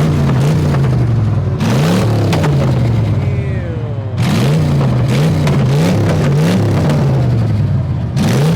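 Car engine revved again and again in quick blips, each rising sharply in pitch and sinking back to idle.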